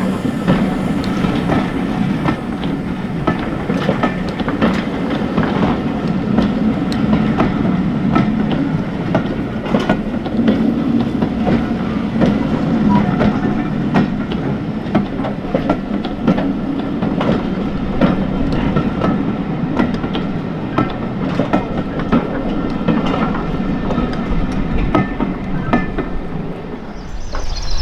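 A steam-hauled train's carriages rolling past with a steady rumble and a continual run of clicks from the wheels crossing rail joints.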